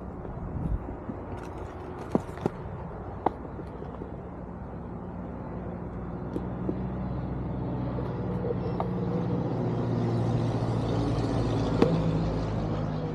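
Onewheel GT electric skateboard rolling along a trail, its hub motor and tyre giving a steady hum that grows louder over the last few seconds, with a few short knocks from bumps.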